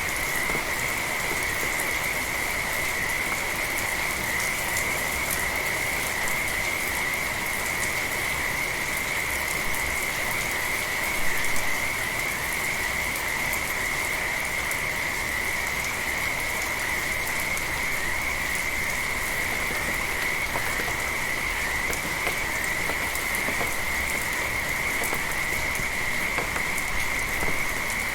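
Steady rain with a continuous chorus of frogs calling, heard as an unbroken high-pitched trill over the hiss of the rain. A brief louder patter comes about eleven seconds in.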